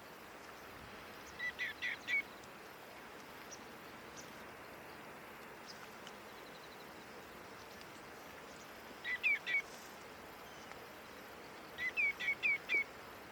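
Common greenshank calling in three quick runs of clear, downslurred notes: about four notes a second and a half in, three about nine seconds in, and five near the end, over a faint steady background hiss.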